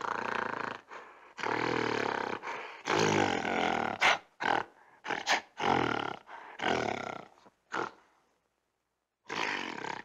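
Gorilla calling: a series of loud roar-like calls, each up to about a second long, with short sharp calls between them, a pause of about a second, then one final call near the end.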